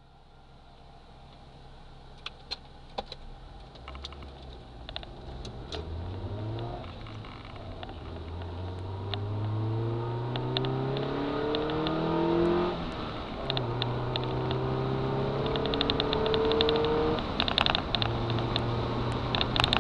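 Honda Civic's 1.5-litre D15B7 four-cylinder, fitted with an open cone air filter, heard from inside the cabin as the car accelerates. The engine note climbs in pitch and drops back twice as the driver shifts up, then holds steadier near the end, with scattered light clicks over it.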